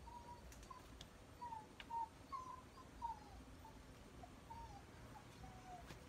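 A bird calling faintly: a run of about a dozen short whistled notes, several sliding down in pitch, with a few faint clicks among them.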